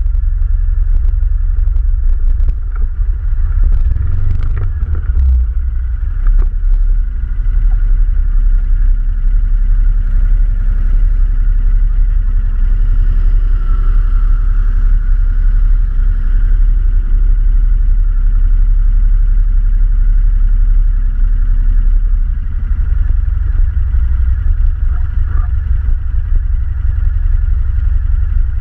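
ATV engine running steadily under way, with a few knocks and rattles in the first several seconds.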